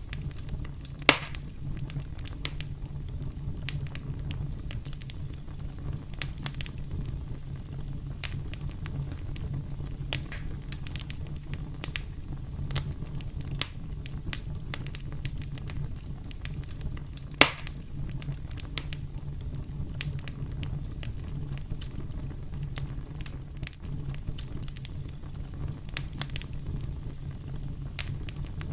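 Campfire burning with a steady low rumble and scattered sharp crackles and snaps, two of them much louder pops, about a second in and past the middle.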